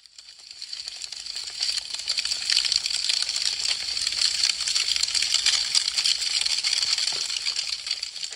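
Burning wood crackling and popping in a dense, steady stream of small sharp snaps, fading in over about the first two seconds.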